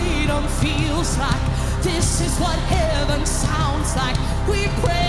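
Live worship music: a band with drums and cymbals under a singer's wordless, wavering vocal runs.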